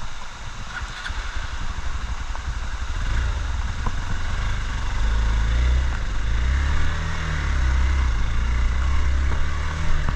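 Motorcycle engine running, getting louder from about three seconds in, its note rising and falling as it is revved.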